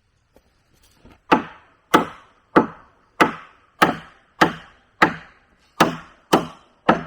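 Steady chopping strikes into wood, about ten blows, one every half second or so, starting a little over a second in.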